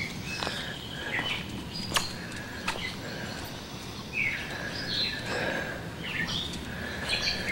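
Songbirds chirping and calling outdoors, short calls that slide down in pitch and hold briefly, repeating throughout, with a few sharp clicks mixed in.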